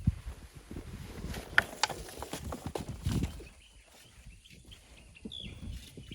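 Hand shovels scraping and knocking into sand and stones in irregular strokes, with a few sharp clicks. A short high chirp comes near the end.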